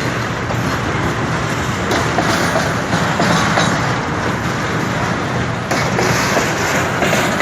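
Freight train hauled by a pair of GE U20C diesel-electric locomotives, running steadily: an even diesel engine drone over the noise of the wheels on the rails.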